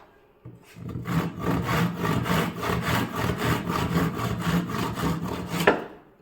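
Teak wood being worked with rapid back-and-forth rubbing strokes, about five a second, for about five seconds, ending with a sharp knock.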